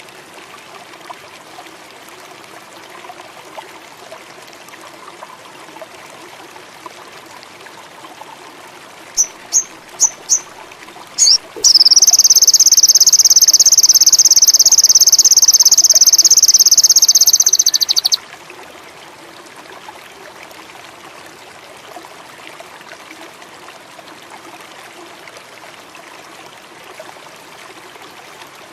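A sogon (sunbird) gives a few short, sharp high notes, then a loud, very high, fast trill held for about six seconds that cuts off abruptly. A babbling stream runs steadily underneath.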